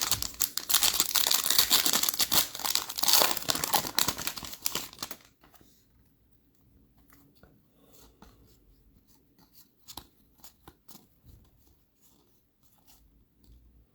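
Trading-card pack wrapper being torn open and crinkled, a loud crackling rip over the first five seconds. After that, only faint scattered clicks of cards being handled.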